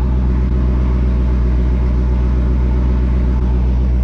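Dodge Challenger V8 idling steadily, heard from inside the cabin, a deep even rumble.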